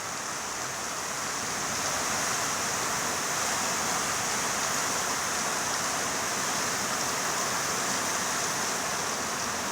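Rain falling in strong wind: an even, rushing hiss that swells a little about two seconds in and then holds steady.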